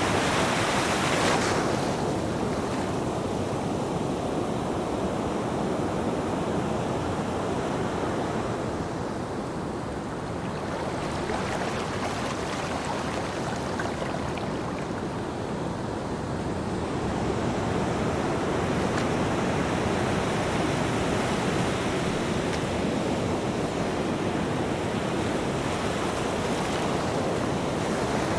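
Ocean waves breaking on a beach, a continuous surf wash: one wave breaks at the start and drains away, the surf eases for several seconds, then swells again with the next waves.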